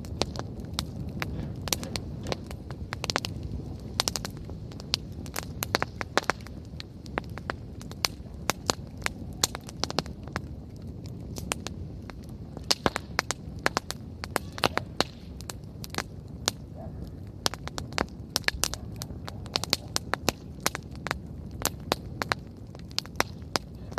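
Wood campfire burning, crackling with irregular sharp pops and snaps over a low steady rush of flames.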